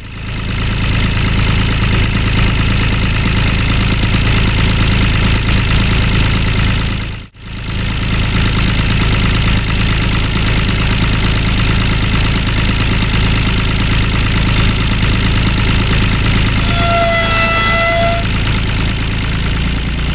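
A small motor running steadily, broken by two sudden dropouts, one right at the start and one about seven seconds in. A short steady tone with overtones sounds about seventeen seconds in.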